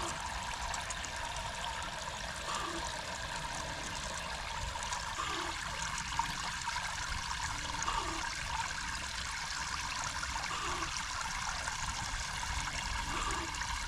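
Small solar fountain pump spraying water into a bowl: a steady trickling splash, struggling to run, with a faint recurring pulse about every two and a half seconds.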